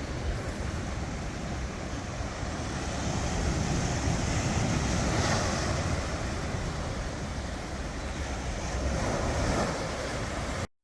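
Ocean surf washing in steadily, with wind on the microphone; the wash swells louder around the middle and cuts off suddenly at the very end.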